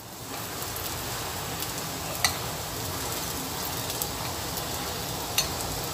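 Kepok banana pieces sizzling steadily as they fry in a little oil in a non-stick pan, with two short clicks, about two seconds in and near the end.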